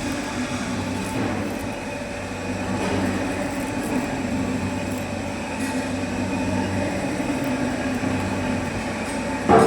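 Metal-turning lathe running with a steady mechanical hum, and a short, louder squeal near the end.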